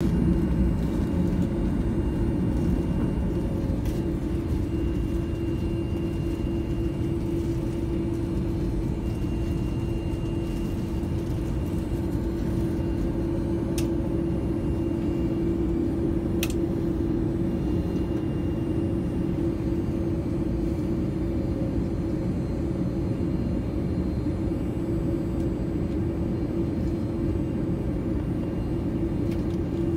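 Steady low cabin rumble of an Airbus A330 on the ground before takeoff, with a constant hum over it and a few faint clicks.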